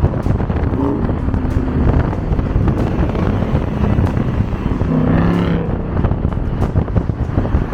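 Car engine and road rumble while driving, with wind buffeting the microphone. A short rising pitched sound comes about five seconds in.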